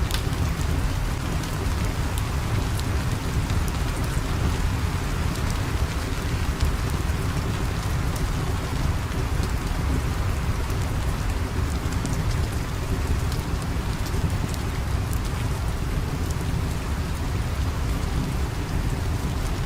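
Steady recorded rain ambience: a continuous hiss of rain with a deep low rumble underneath and scattered faint sharp ticks.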